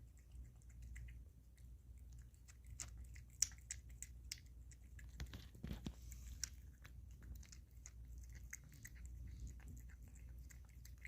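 Kitten chewing wet kitten food: faint, irregular small clicks and smacks of biting and chewing, busier and louder for a few seconds in the middle.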